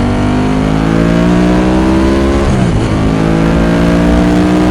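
Ducati 916's 90-degree V-twin engine accelerating hard under load, its pitch climbing; about two and a half seconds in the revs drop sharply at an upshift, then climb again in the next gear.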